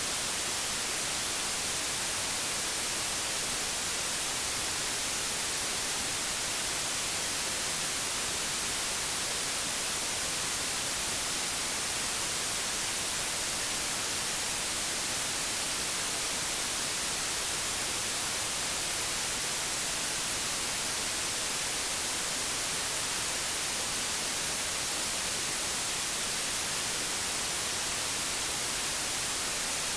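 Analogue television static: a steady, even hiss with most of its energy in the high frequencies, unchanging throughout.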